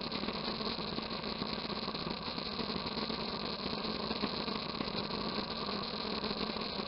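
Motorcycle engine running steadily under a constant rushing noise, without a break or a change in pitch.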